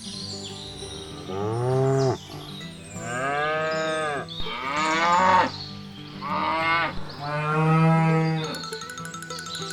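Cattle mooing: four long calls, each rising and then falling in pitch, over faint background music.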